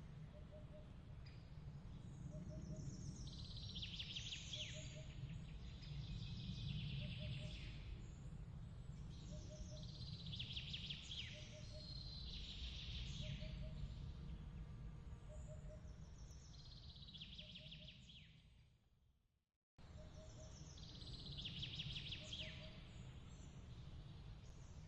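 Night ambience: soft high chirping in short bouts every few seconds over a steady low rumble, with a faint pip repeating about once a second. Near the end it fades to silence, then cuts straight back in.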